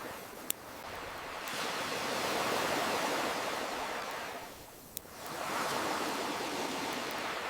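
Waves washing in on a shore, swelling up and falling back about every five seconds. A campfire gives a sharp pop about half a second in and another near the middle.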